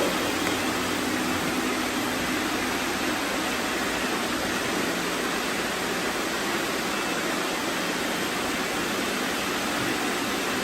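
Many robot vacuums running at once: a steady, even noise of their suction motors and brushes, with no breaks or sudden knocks.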